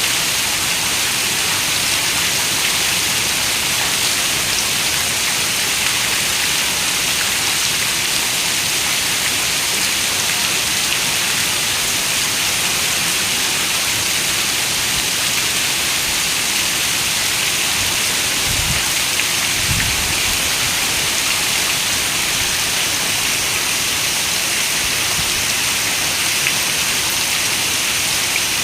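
Steady rain falling, an even hiss with no letup, and two short low thumps close together about two-thirds of the way through.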